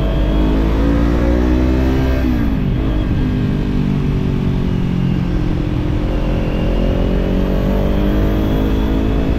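Kawasaki parallel-twin motorcycle engine through a slip-on exhaust, accelerating: its pitch climbs, drops sharply about two seconds in, then holds lower and climbs again through the last few seconds, over steady low wind and road rumble.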